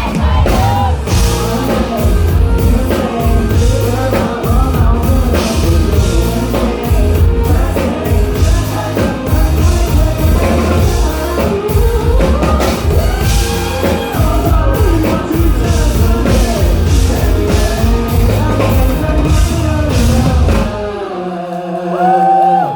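Live rock band playing loud with a singer, drum kit and bass. About two seconds before the end the band stops, leaving only a few voices.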